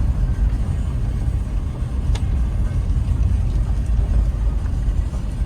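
Low, steady rumble of a car on the move, with one short click about two seconds in.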